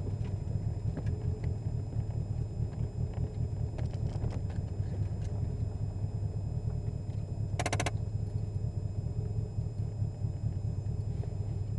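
Toyota MR2 AW11's turbocharged four-cylinder running steadily at low revs, a low, even rumble with no revving. About eight seconds in there is a brief burst of rapid high chirps.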